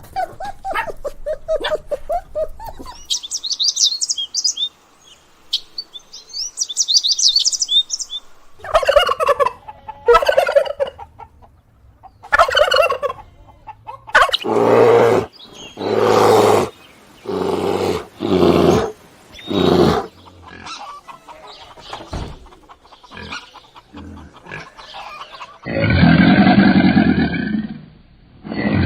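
A string of farm-animal calls, mostly poultry: high chirping, then a run of loud calls about a second apart, cut together as separate clips, with a different loud sound near the end.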